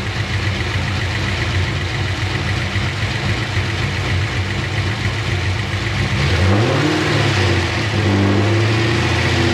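Pontiac GTO's LS V8 idling, then revved up about six seconds in and held at a raised engine speed.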